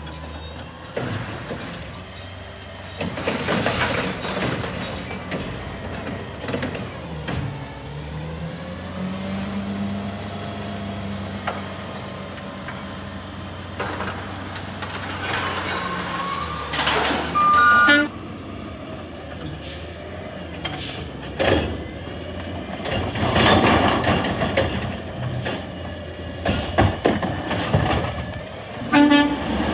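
Peterbilt 520 recycling truck with a Heil Curotto Can arm at work: the diesel engine revs up and settles, air brakes hiss, and a run of sharp bangs follows as the arm shakes carts to empty them, their lids slapping.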